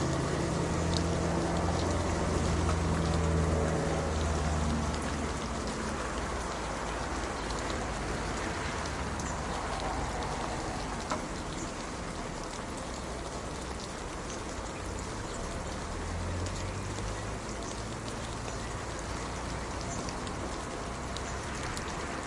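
Steady rain falling in an even hiss of many drops. A low steady hum sits under it for the first few seconds and comes back near the end.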